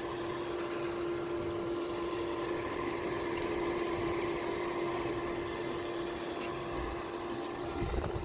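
Small DC electric motor of a homemade air cooler humming steadily, one unchanging pitched tone with a light hiss.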